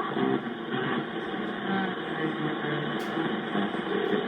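CB radio receiver on channel 28 carrying a weak long-distance skip signal: a faint, garbled voice buried in steady static.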